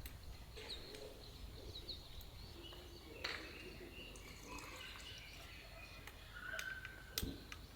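Birds chirping in short high notes over faint outdoor background noise, with two sharp clicks, one a few seconds in and a louder one near the end.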